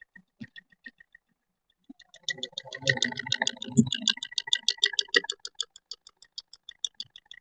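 Ford Figo engine starting about two seconds in, then running with a fast, even ticking from under the tappet cover, about seven ticks a second. The mechanic calls it knocking inside the tappet cover and suspects the rockers; the camshaft lobes under the cover turn out worn.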